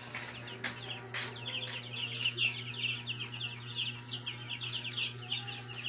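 A flock of week-old broiler chicks peeping continuously, many short falling chirps overlapping, over a steady low hum. A few light knocks sound in the first couple of seconds.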